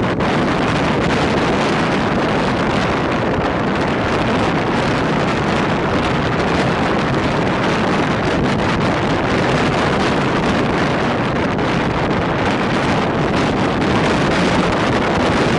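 Passenger train running at speed: steady rushing wind buffeting the microphone over a constant low rumble of wheels on track.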